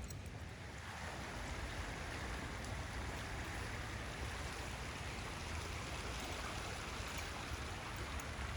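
Small rain-fed streams of runoff water running and trickling, a steady rushing that grows fuller about a second in.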